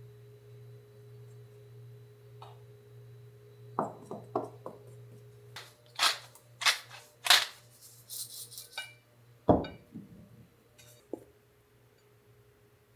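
Tableware being handled over a steady low hum: a few light knocks, then three sharp clinks, a brief hiss and one heavier thump.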